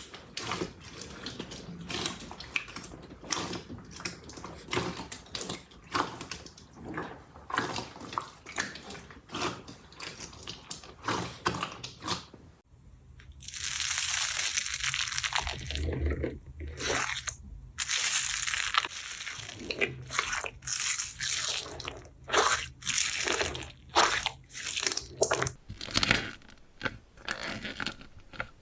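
Slime being squeezed and pressed by hand, giving dense crackling and clicking. About halfway through the sound changes to a louder stretch with a steady hiss, then a run of separate squelching pops.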